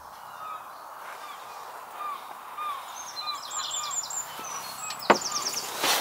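Birds chirping outdoors: a run of short, repeated chirps, with a brief higher trill around the middle. A single sharp click comes about five seconds in.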